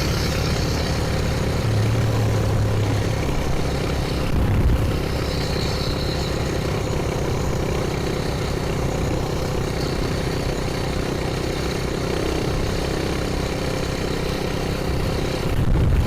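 Coleman BT200X mini bike's single-cylinder four-stroke engine running through a straight pipe at a steady high cruise, heard from a microphone inside the rider's helmet. Two brief louder swells come about four seconds in and near the end.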